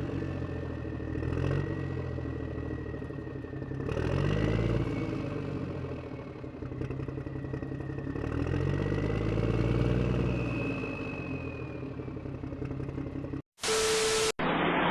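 An engine running and revving up and down several times, with a thin high whine above it. It cuts off abruptly near the end.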